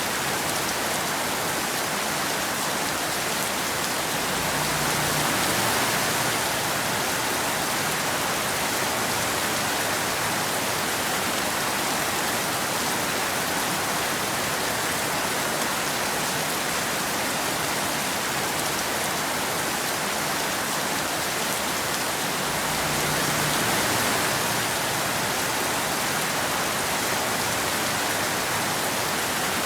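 Steady rain falling, an even hiss of drops that swells slightly in loudness twice, about five seconds in and again near twenty-three seconds.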